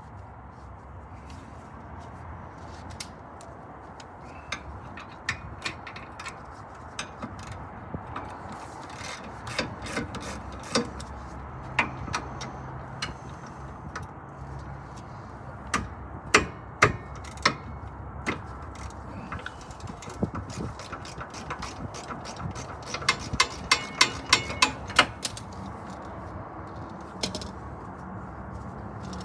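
Hand tools working on a car's rear disc brake: scattered metallic clicks and knocks, with a quick run of ratchet-wrench clicks about three-quarters of the way through.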